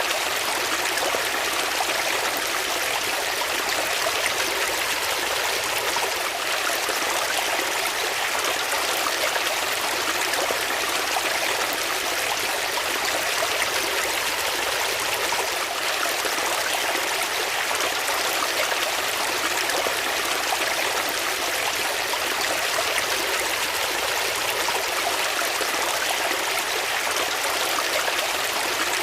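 Water flowing steadily in a stream, a continuous even rush and babble that does not change.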